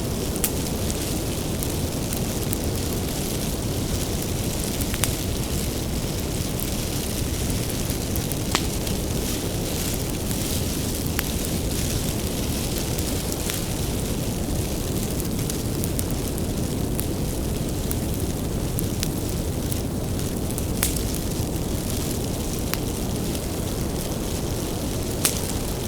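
Wood fire burning with a steady low rumble and irregular sharp crackles and pops from the burning firewood.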